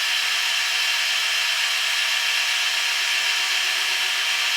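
Kearney & Trecker horizontal milling machine running a shell mill through a counterbore cut, hand-fed: a steady, even cutting noise over the machine's running hum.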